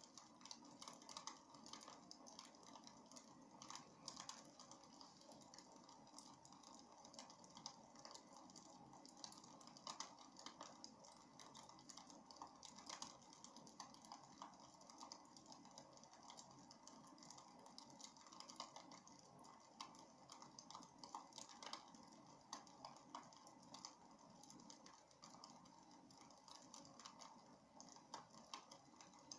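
Faint crackling of burning wood in a fireplace, with dense, irregular small pops and snaps over a soft steady hiss.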